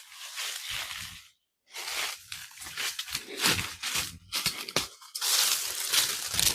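Rustling and crunching of dry leaves and undergrowth, in irregular bursts with short pauses between them.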